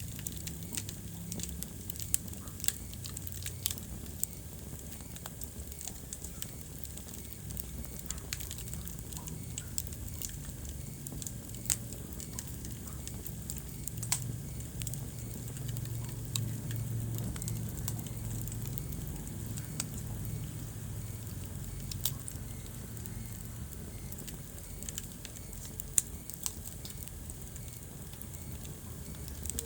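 Wood fire burning in a fireplace: a steady low rumble of flames with scattered sharp crackles and pops every few seconds.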